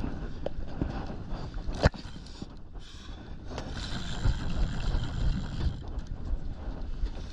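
Steady low rumble of a small boat at sea in rough water, with wind on the microphone and a single sharp knock about two seconds in.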